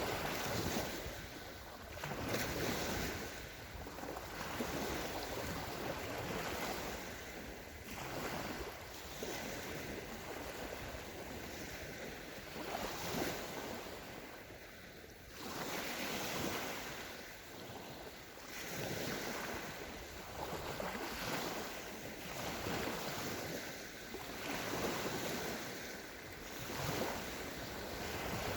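Small sea waves breaking and washing onto a sandy shore, the surf swelling and easing every couple of seconds.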